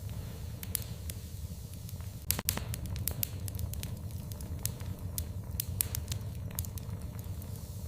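Wood fire crackling in a fireplace: irregular sharp pops and snaps over a low, steady rumble of the burning fire, with a cluster of louder pops about two and a half seconds in.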